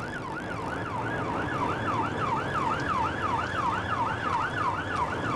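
Police car siren sounding a fast yelp, its pitch sweeping up and down about four times a second, over steady engine and road rumble during a high-speed pursuit.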